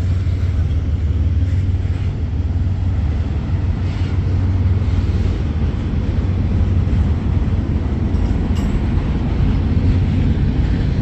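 Freight train rolling slowly, a steady low rumble of the cars on the rails.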